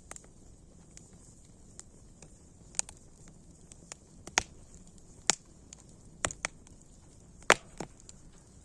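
Wood fire burning with a soft hiss and irregular crackles and pops, the loudest pop about two thirds of the way through.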